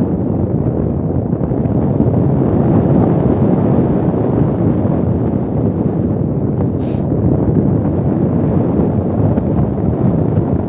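Strong wind buffeting the microphone: a loud, steady low rush, with a brief high hiss about seven seconds in.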